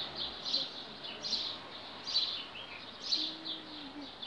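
A bird repeating short, high chirps, a little more than one a second.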